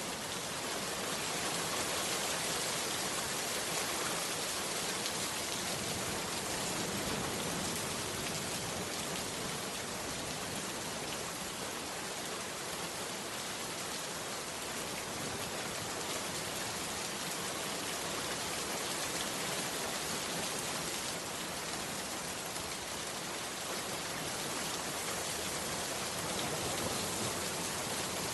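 Heavy rain pouring steadily, a dense, even hiss of countless drops with no let-up.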